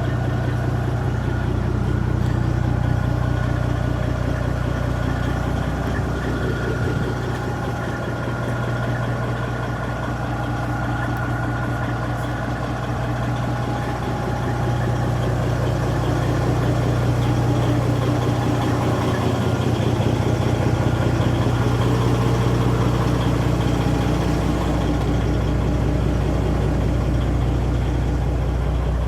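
Kenworth truck's tuned Detroit Diesel Series 60 inline-six running steadily through 8-inch straight pipes, a deep even exhaust note around idle, with only small changes in engine speed.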